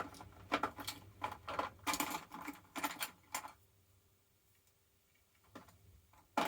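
Small hard objects clattering and knocking as they are moved and set down on a workbench: a quick, irregular run of clicks and knocks that stops about halfway through, with a couple of faint knocks near the end.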